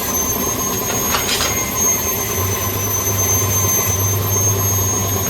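Workshop machinery running steadily, a constant whine over a hiss. A short hiss comes about a second in, and a low hum starts about two and a half seconds in, broken briefly near four seconds.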